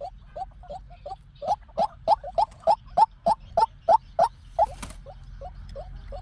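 White-breasted waterhen calling: a fast run of short, repeated notes, about three a second, growing louder in the middle and then softer. A brief scratchy noise comes near the end over a low steady hum.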